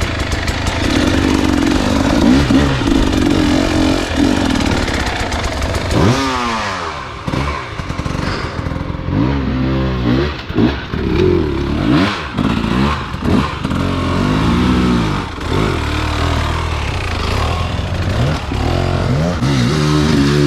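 Dirt bike engine being ridden on a trail, running fairly steady for the first few seconds, then revving up and down again and again as the throttle is worked, with clattering from the terrain.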